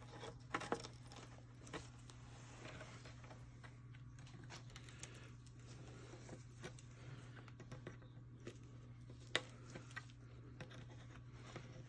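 Faint scattered clicks and scrapes of pliers and wire being worked on a car's exhaust heat shield, over a steady low hum.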